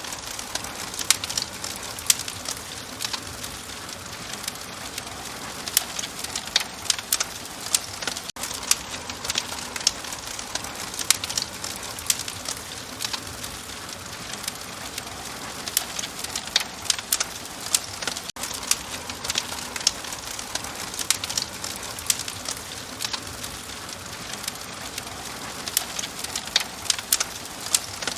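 Crackling fire: a steady hiss with frequent sharp, irregular pops and crackles.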